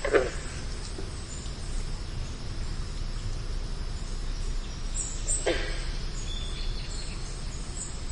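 Outdoor ambience: faint, high bird chirps over a steady low background noise, broken twice by a short, loud animal call that drops sharply in pitch, once near the start and again about five and a half seconds in.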